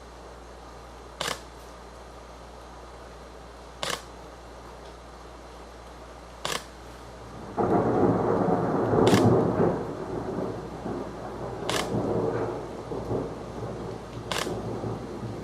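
Thunder from a nearby lightning strike. It breaks suddenly about seven and a half seconds in, is loudest about a second and a half later, then rolls on in several swells that gradually fade. A sharp click repeats about every two and a half seconds throughout.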